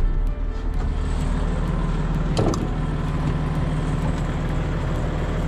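Case 2670 tractor's diesel engine running steadily, with a short clunk about two and a half seconds in.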